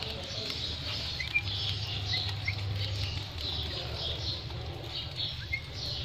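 Birds chirping softly in short, scattered calls, with a steady low hum underneath.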